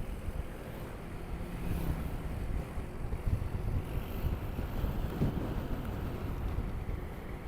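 Motorcycle riding along a road: wind buffeting the action camera's microphone, with the engine and road noise rumbling underneath.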